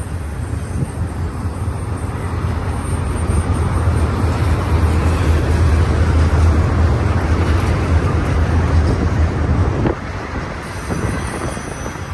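Freight train cars rolling past on a curve: a steady low rumble that builds toward the middle and drops off sharply about ten seconds in, with faint high-pitched wheel squeal near the start and again near the end.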